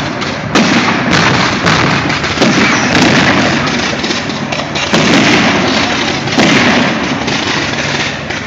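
Fireworks going off in quick succession: a dense, continuous barrage of bangs and crackling with fresh loud bursts about every second.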